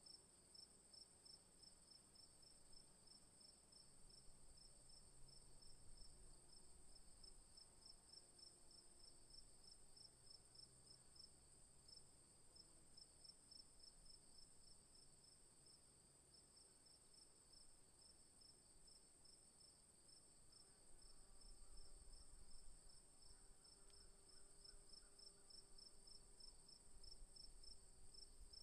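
Faint night insects, crickets, calling together: one gives a continuous high-pitched trill while another, a little lower, chirps in rapid, even pulses.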